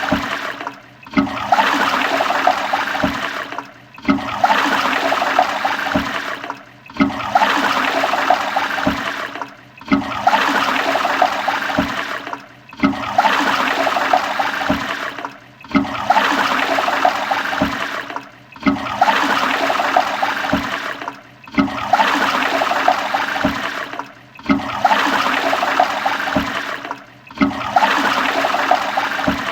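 Toilet flushing over and over: a rush of water that starts sharply and fades over about three seconds. It repeats roughly every three seconds, each flush separated from the next by a brief gap.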